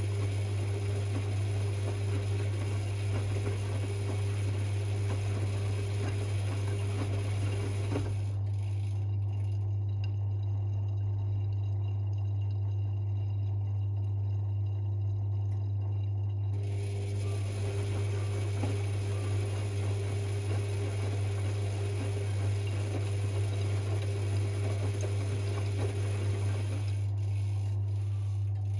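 Privileg 5020 front-loading washing machine mid-cycle: its drum motor turns the drum, pauses for several seconds about a third of the way in, then turns it again before stopping near the end, the usual tumble-and-rest rhythm of a wash or rinse. A steady low hum runs under it throughout.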